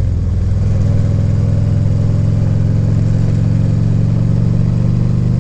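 Harley-Davidson Ultra Classic Limited's V-twin engine running at a steady, even pitch, stepping up slightly right at the start.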